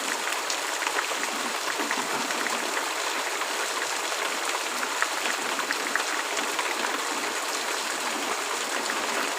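Steady heavy rain: a dense, even hiss with many separate drops ticking through it, and no thunder.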